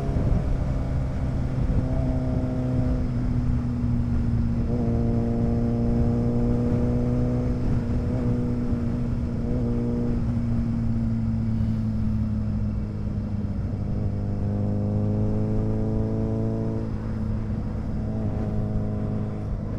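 Motorcycle engine running at a steady cruise, its note holding fairly even with slight rises and falls in pitch, over a constant rush of wind and road noise.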